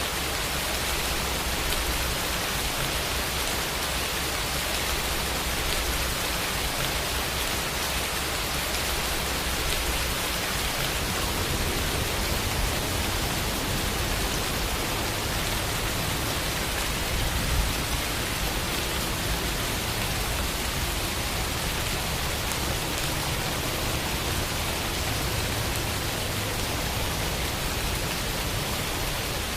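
Steady rain falling, an even, dense hiss of countless drops with no single drop standing out and a brief slightly louder patch a little past the middle.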